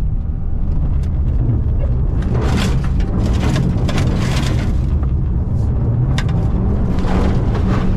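2025 Subaru WRX's turbocharged 2.4-litre flat-four engine pulling hard through a clutch-drop launch, with the car's wheels spinning into a power skid. A rushing noise comes in about two seconds in and swells again near the end.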